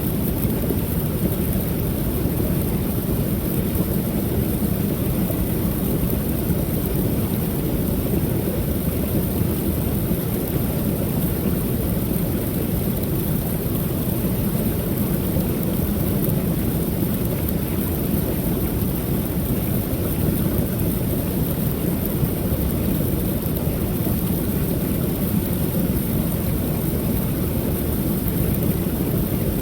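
Creek waterfall: water pouring over the falls in a steady, low rush with no breaks.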